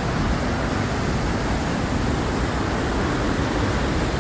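Steady rushing of a nearby waterfall.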